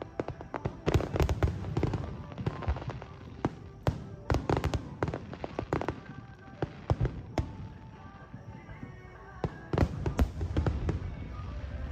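Fireworks bursting in rapid volleys of sharp bangs and crackles, densest in the first few seconds and again near the end, over background music.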